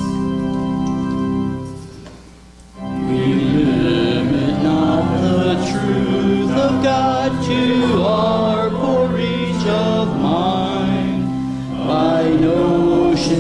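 Organ holding sustained chords, a brief pause about two seconds in, then a congregation singing a hymn to organ accompaniment.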